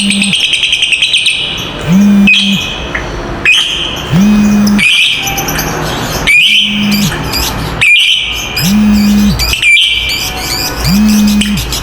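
Lovebirds chattering shrilly: a fast rattling trill (the 'ngekek') in the first second or so, then sharp high calls every second or two. Under them, a low steady hum switches on and off about every two seconds.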